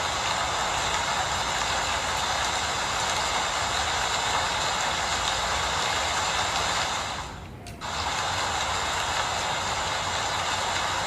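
Steady rain falling, an even hiss-like rush that briefly drops away for about half a second near the middle before returning.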